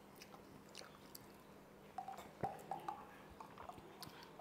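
Faint chewing and mouth sounds of someone eating crispy deep-fried pork knuckle, with scattered soft clicks and smacks.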